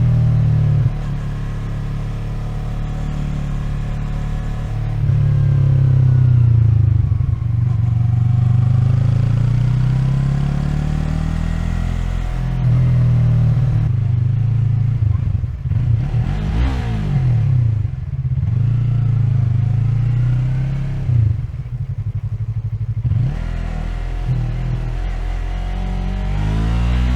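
Yamaha MT-03's 321 cc parallel-twin engine running under a rider in city traffic, revs rising and falling as it pulls away and rolls off. A sharp rev rise comes around the middle, and a burst of quick up-and-down rev changes follows a few seconds later.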